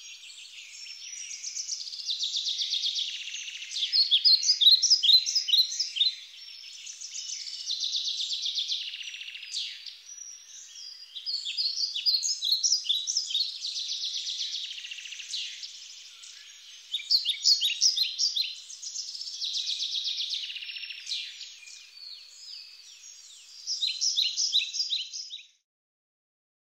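Birds singing: repeated phrases of high chirps and trills, each about two seconds long, with short gaps between them. The song cuts off suddenly near the end.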